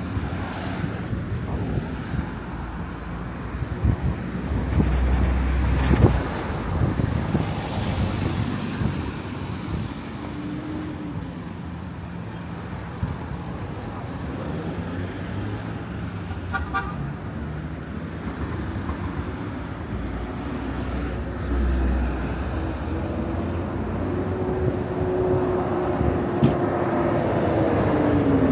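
Town street traffic: cars and other motor vehicles passing and running, with low surges as vehicles go by. Near the end a vehicle's engine note rises and then falls as it passes.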